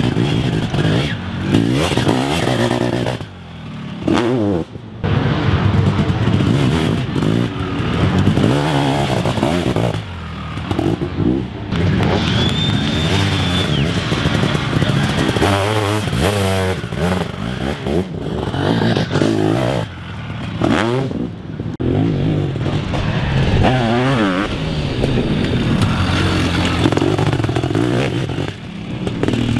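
Sidecarcross outfits racing, their engines revving up and down in pitch as they accelerate and shift, with several brief drops in loudness.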